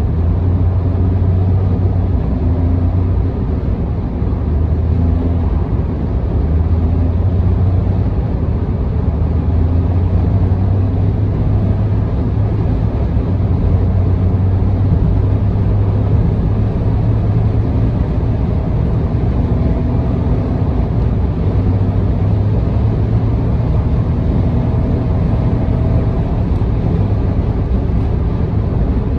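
A car cruising at expressway speed, heard from inside: a steady low drone of engine and tyre road noise.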